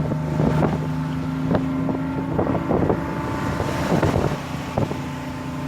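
A boat engine running steadily, with wind buffeting the microphone and scattered sharp knocks throughout; a rush of noise swells about four seconds in.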